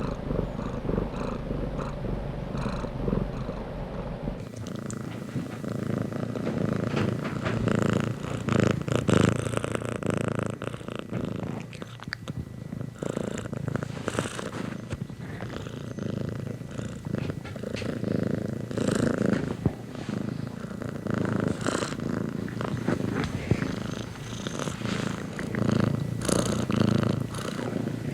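Domestic cat purring steadily, a continuous low, pulsing rumble. About four seconds in the sound changes character, losing its deepest hum.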